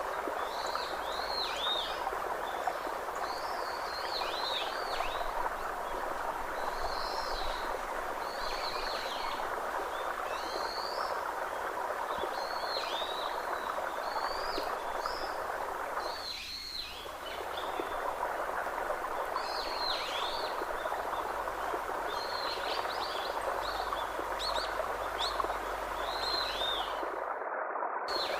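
Small birds chirping over and over in short, downward-sweeping calls above a steady rush of running water, like a stream. The sound cuts out for a moment near the end.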